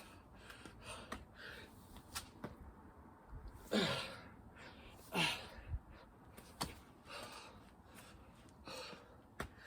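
A person breathing hard during a tough bodyweight workout, with two loud falling sighs or groans about four and five seconds in, and a few scattered clicks.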